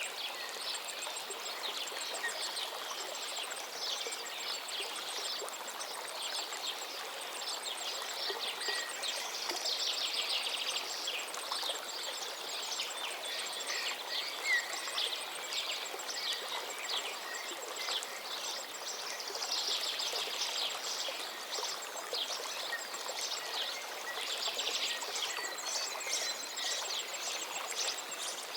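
River water running steadily, with many birds chirping and singing over it. The birdsong thickens into dense choruses about ten seconds in and again about twenty seconds in, and a faint, rapid, very high ticking runs under much of it.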